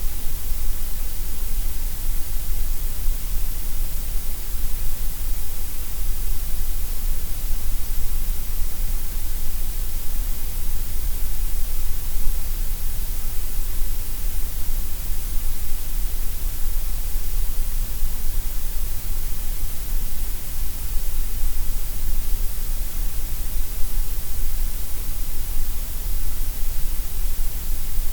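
Gray noise: a steady, even hiss spread across all pitches, with a strong low rumble at the bottom, unchanging throughout.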